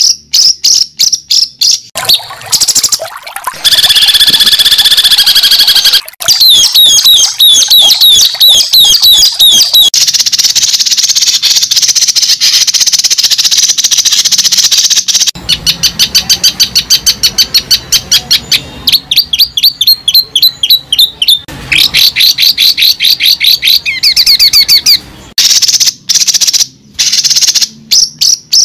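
Birds chirping and trilling loudly in rapid, high-pitched repeated series, the pattern changing every few seconds.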